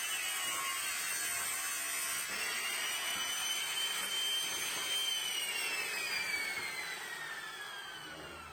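Electric power tool motor running with a high whine over a hiss; about five seconds in it is switched off and the whine falls steadily as the tool winds down.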